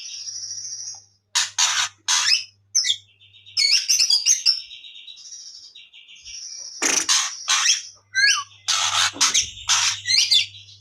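Young white-rumped shama singing a varied song of loud, sharp notes broken by long buzzy rattling phrases, its imitation of a lovebird's ngekek chatter.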